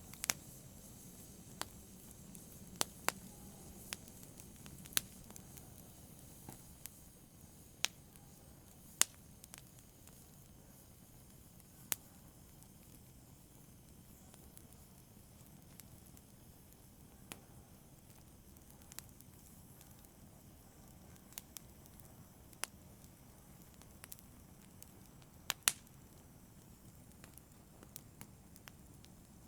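Fire crackling softly: scattered sharp pops and snaps at irregular intervals over a faint low hiss.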